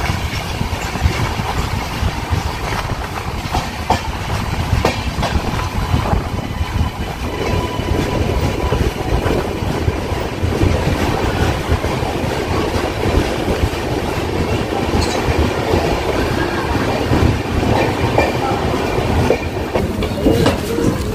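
Shantiniketan Express passenger train running along the line: a steady rumble of the coaches with wheels clattering over the rails.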